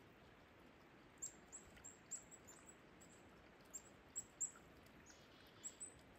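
Near silence, broken by a dozen or so very high, short bird chirps, each falling slightly in pitch, over a faint steady background hiss.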